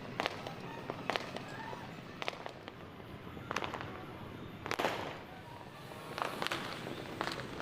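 New Year fireworks and firecrackers going off in the distance: scattered sharp bangs and pops at uneven intervals, with a louder, echoing burst about five seconds in.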